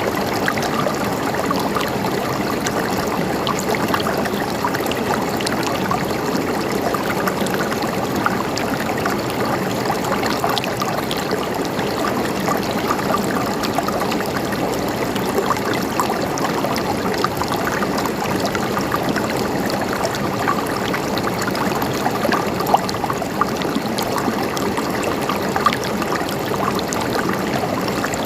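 Gently flowing water, trickling and gurgling steadily, with a constant run of tiny splashes.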